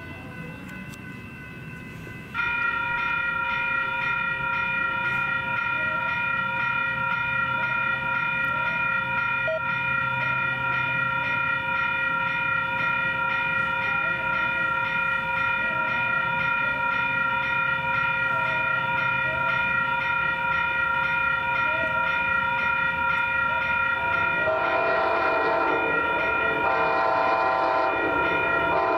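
Passenger train with a Siemens SC-44 Charger locomotive, sounding as a loud set of steady tones in several pitches that starts abruptly a couple of seconds in. Near the end, a denser, lower set of pulsing tones joins.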